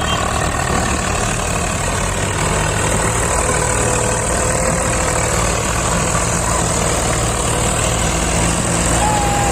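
Heavy diesel engine running steadily at low speed.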